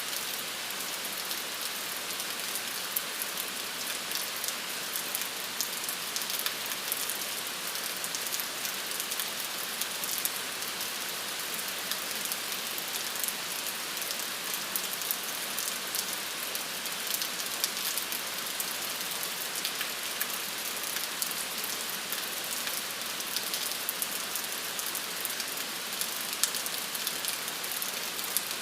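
Steady rain falling, an even hiss with many small drops ticking sharply on a surface throughout.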